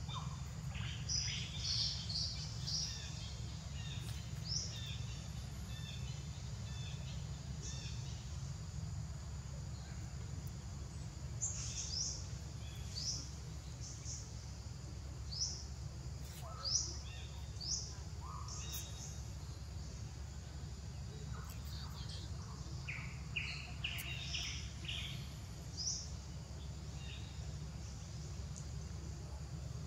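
Scattered short, high bird chirps in several clusters over a steady low hum.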